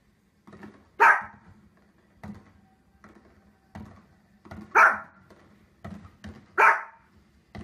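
A dog barking: three loud, sharp barks, about a second in, near the middle and near the end, with fainter short thumps between them.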